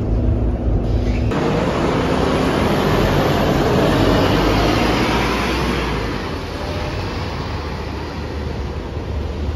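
Scania K230UB bus's diesel engine idling, then about a second in a sudden loud rushing noise that swells for a few seconds and slowly fades.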